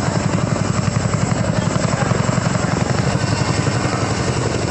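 Helicopter rotor beating in a fast, even chop over a steady engine noise.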